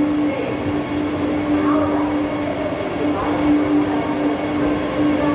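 Vande Bharat Express electric train set at the platform, giving a steady hum that dips briefly now and then.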